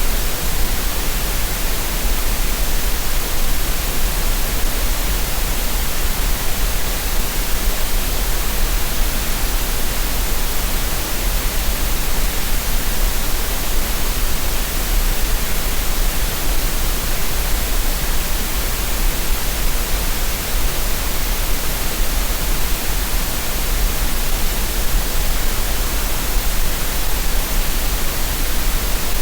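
Synthetic green noise: a steady, unchanging hiss of random noise spread evenly across the frequencies, made as a relaxation and tinnitus-masking sound.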